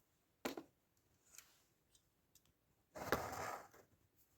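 Handling noise: a short double click about half a second in, then a brief rustle about three seconds in, with faint ticks between. Otherwise very quiet.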